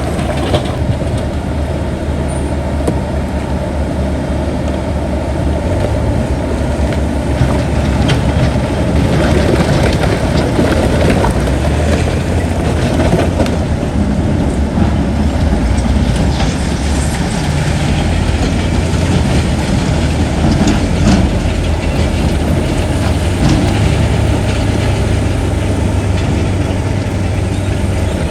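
Heavy diesel earthmoving machinery running steadily, a deep continuous engine drone with scattered metallic clanks and knocks.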